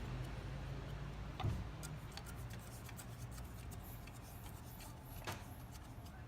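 Small metallic clicks and ticks from a nitrogen tank's valve and regulator being handled as it is opened for pressure testing, over a steady low hum.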